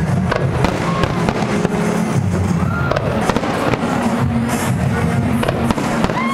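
Fireworks going off in a rapid, continuous barrage of bangs and crackles, with a few short whistles, over music playing underneath.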